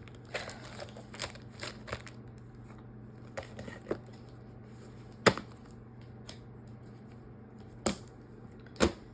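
Small craft items being handled on a table: light rustling, then a few sharp clicks and taps, the loudest about five seconds in and two more near the end.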